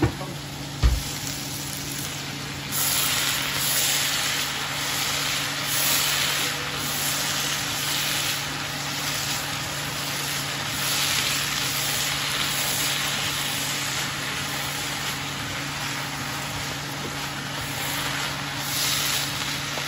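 Julienned bamboo shoots sizzling in a hot nonstick pan, stirred and tossed with a wooden spatula so the frying hiss swells in several surges, over a steady low hum. A sharp knock sounds about a second in.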